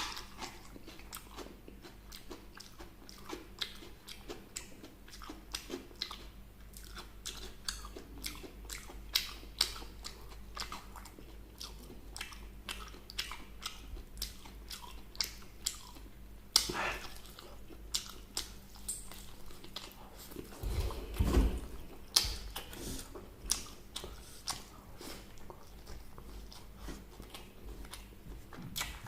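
Close-up eating sounds: biting into and chewing crispy fried chicken, with many short crisp crunches. There is a louder, deeper bump about two-thirds of the way through.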